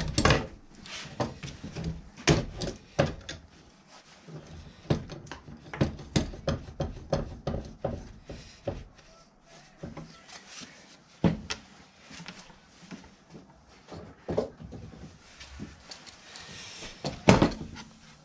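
Irregular knocks, clicks and light rubbing of hard objects being handled and set down, with a loud knock at the start and another near the end.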